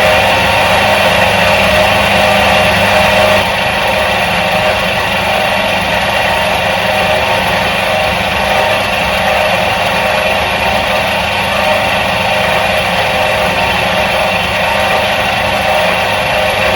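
Electric motor of a 1977 Soviet washing machine running steadily, a continuous hum made of several steady tones. It gets slightly quieter about three and a half seconds in, then holds steady.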